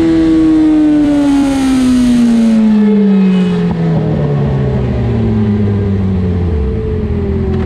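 Sport motorcycle engine heard onboard, its revs falling steadily in second gear as the bike slows off the pace, settling to a low steady note near the end. Wind rush on the microphone fades about two and a half seconds in.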